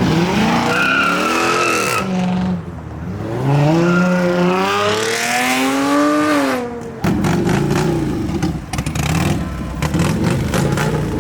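A car engine revving hard, its pitch rising and falling twice, with tyres squealing as in a burnout. About seven seconds in it turns to a rougher, crackling run.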